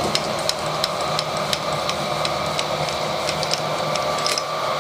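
Milling machine running a 10 mm carbide cutter down through a broken stud in a threaded aluminium hole. The machine gives a steady hum and the cutting gives irregular sharp ticks, several a second.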